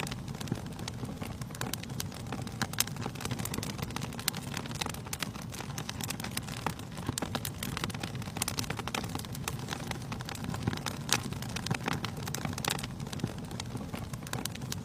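Wood fire burning in a fireplace: many irregular crackles and pops over a steady low rumble of the flames.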